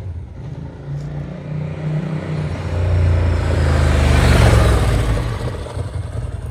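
Ducati 888's 888cc desmo V-twin running, swelling in loudness to a peak a little past halfway and then easing back down.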